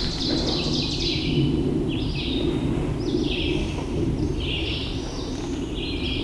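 Small birds singing in short phrases, about one a second, over a steady low rush of background noise.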